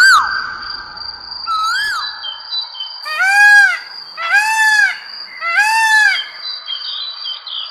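Bird calls: a swooping call twice, then three drawn-out calls that rise and fall, about a second apart, over a thin steady high tone.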